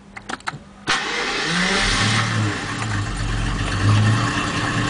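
A few clicks, then the Jaguar XJS V12 engine starts about a second in, revs up briefly and settles into a low idle that swells and dips. The idle is hunting around 500 RPM, up and down by about 100 RPM, after a distributor overhaul, and the owner is unsure the ignition timing is right.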